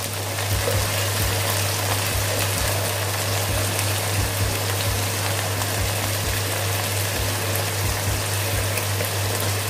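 Ground spice paste, thinned with a little water, bubbling and sizzling steadily in mustard oil in a metal wok on a medium flame.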